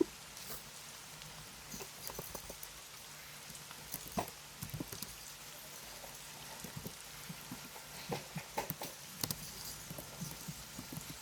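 Computer keyboard typing: irregular keystrokes clicking at an uneven pace, some louder than others, with short pauses between runs of keys.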